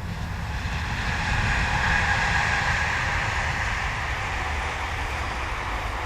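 A train passing: a broad rushing rumble that swells over the first two seconds, then slowly fades.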